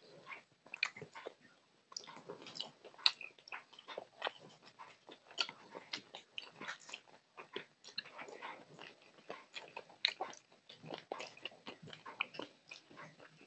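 Close-miked eating: irregular chewing and wet mouth smacks of a person eating rice by hand, with fingers mixing and squishing rice on a metal plate.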